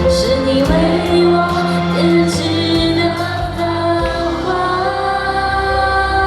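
A pop song: a female voice singing long held notes over an instrumental backing.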